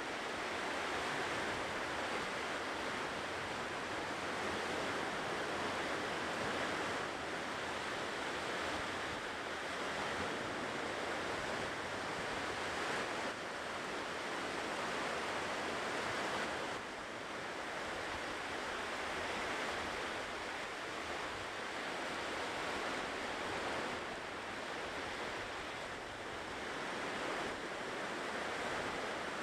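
Ocean waves washing continuously onto a shore, the surf swelling and easing gently every few seconds.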